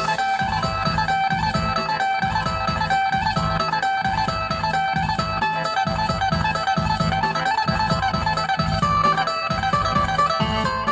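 Phin, the Isan plucked lute, playing a fast melody of plucked notes over a steady low beat.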